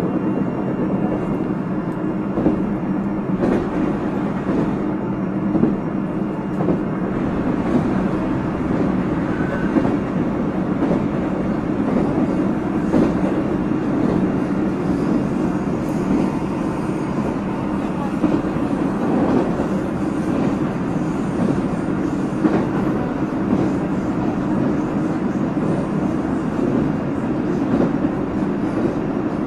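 JR Central 373 series electric multiple unit running at steady speed: a continuous rumble of wheels on rail with a steady hum and scattered clicks over the rail joints.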